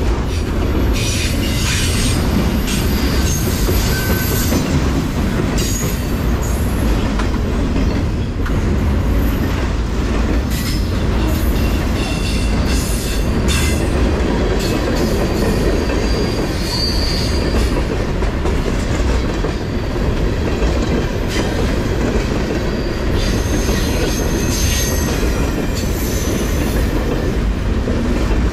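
Freight train cars, autoracks and tank cars, rolling past close by: a steady rumble of steel wheels on rail with irregular clicks over the rail joints and a few brief high-pitched wheel squeals.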